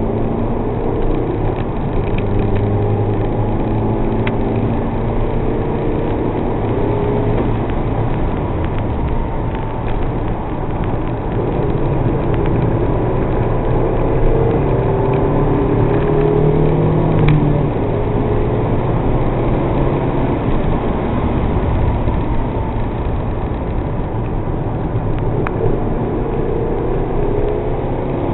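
MG TF's mid-mounted four-cylinder engine heard from inside the cabin at track speed, its note rising and falling as the revs change.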